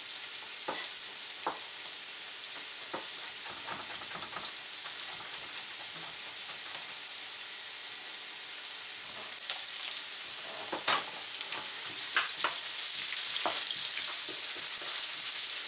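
Carrot sticks sizzling in hot oil in a wok, a steady hiss with scattered pops and crackles. The sizzle grows louder near the end, as the carrots are stirred.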